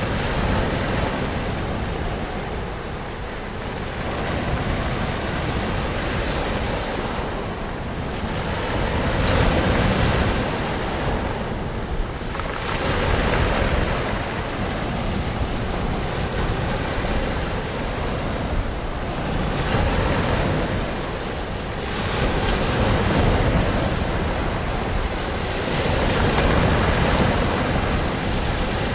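Ocean surf: waves breaking and washing in over a continuous rush, swelling and ebbing every few seconds, with a deep rumble underneath.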